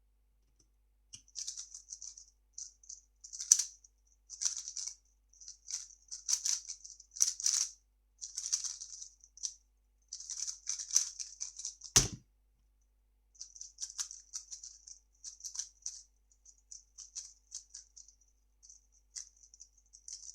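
3x3 speedcube being turned fast, a rapid stream of plastic clicks, ending about twelve seconds in with one sharp thump. After a short pause the clicking starts again, lighter.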